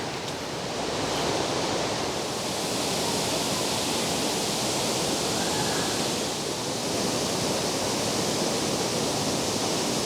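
Waterfall rushing steadily into a pool, a constant roar of falling water.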